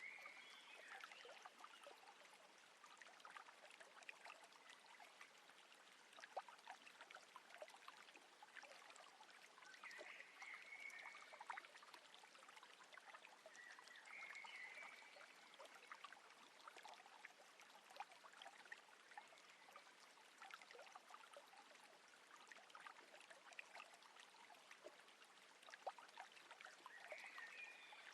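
Faint water trickling and lapping around a boat on calm water, with many tiny drips and splashes. A few brief high chirping calls come about ten and fourteen seconds in and again near the end.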